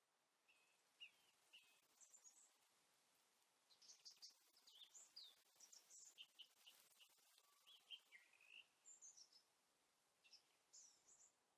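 Faint birdsong: small birds giving rapid high chirps and short quick trills, scattered through the whole stretch over a quiet background hiss.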